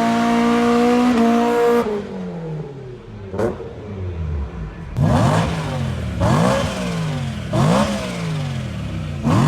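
Car engine held at high revs, falling back about two seconds in, then blipped sharply four times, about once every second and a half.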